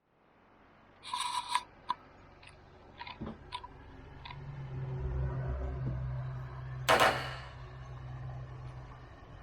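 A cat's teeth biting and gnawing on a camera held close, giving sharp clicks and crunches, with a louder scrape or knock against the camera about 7 seconds in.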